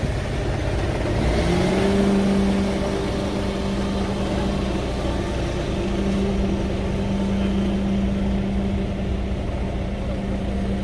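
Engine of an earthmoving machine rising in revs about a second in, then running steadily at the higher speed.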